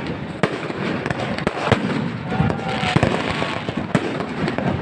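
Fireworks going off in a dense, irregular series of sharp bangs over a constant crackle, with faint whistling glides between them.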